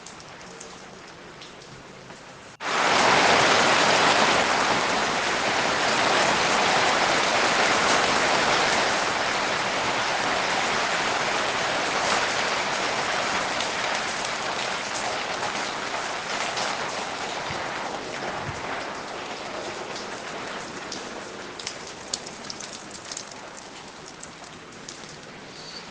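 Light rain with scattered drops. About two and a half seconds in, a much louder, heavy downpour starts abruptly, then slowly eases off over the next twenty seconds back to light rain.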